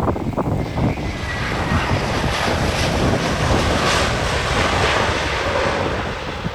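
Jet airliner passing close by, its engine noise a loud, even rush that swells to its loudest around the middle and eases a little near the end, with wind buffeting the microphone.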